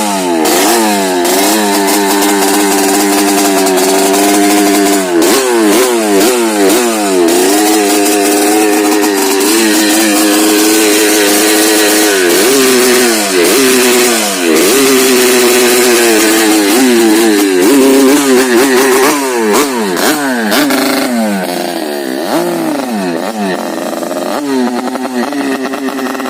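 Yamaha RX-King's single-cylinder two-stroke engine revved again and again through an aftermarket under-belly racing exhaust, the pitch climbing and falling with each throttle blip and held high for stretches. It settles lower and quieter near the end.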